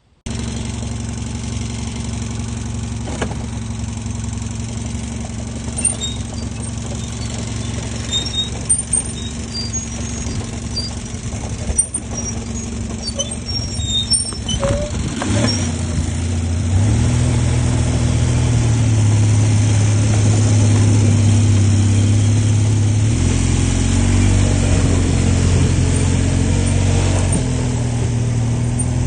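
ATV engine running, with its note shifting a few times in the second half and getting a little louder from about halfway.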